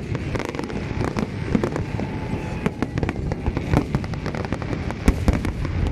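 Fireworks going off without a break: a dense, irregular run of bangs and crackling, with a louder bang about five seconds in.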